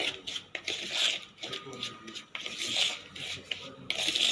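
A spoon stirring and scraping dry rava (semolina) mixed with curd around a bowl, in scraping strokes a second or two apart with small clicks between.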